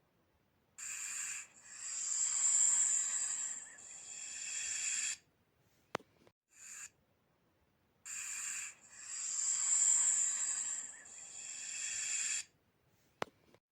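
Snake hissing: two long hisses a few seconds each, swelling and then fading, each followed by a short sharp click, repeating like a loop.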